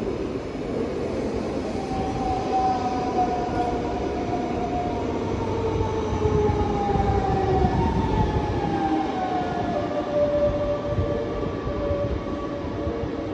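A DB class 424/425/426 electric multiple unit running, its squeal heard as several whining tones that glide slowly down in pitch over the rumble of the train, a little louder in the middle.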